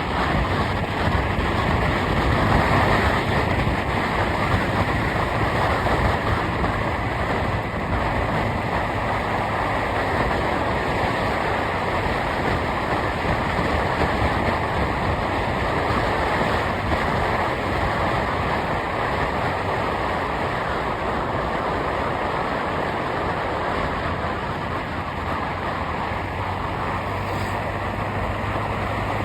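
Steady road and wind noise of a moving vehicle, with a low engine hum underneath.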